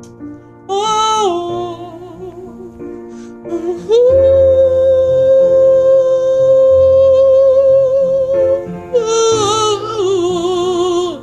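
Countertenor singing a wordless vocal run over soft piano chords, then holding one long note with vibrato for about four seconds before a final descending run.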